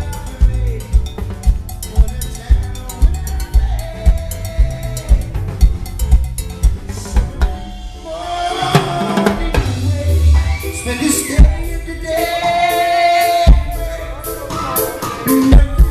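Live band playing an instrumental passage: drum kit with bass drum, snare and rimshots carrying the first half, then sustained pitched instruments coming in over the drums about halfway through.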